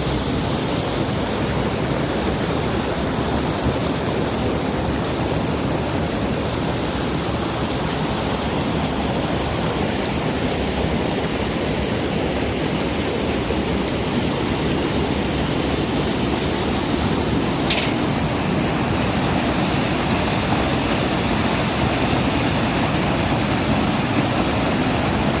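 River water rushing steadily, an even full-range noise. A single brief sharp click sounds about 18 seconds in.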